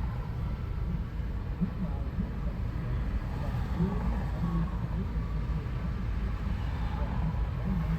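Steady low rumble of a slow-moving Canadian Pacific coal train rolling past.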